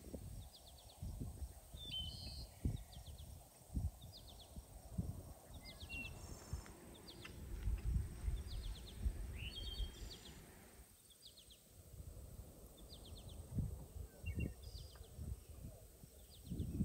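Songbirds singing short, high trilled phrases that repeat about every second or so, over a low, uneven rumble.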